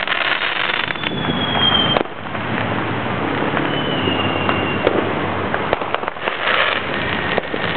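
Many fireworks going off at once: a dense crackle of pops and bangs, with a thin high whistle about a second in and another around four seconds in.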